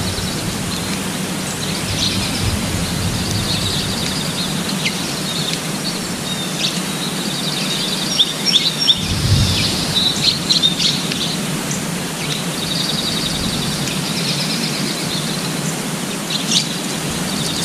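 Small birds chirping, with rapid trilled calls near the start and again near the end and a cluster of sharp chirps about midway, over a steady outdoor background hiss.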